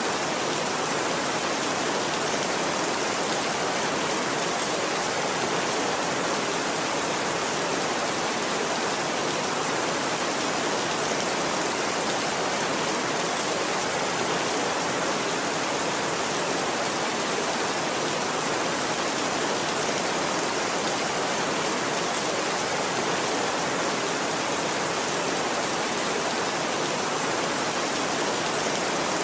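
Steady, even rain with no breaks or rumbles of thunder.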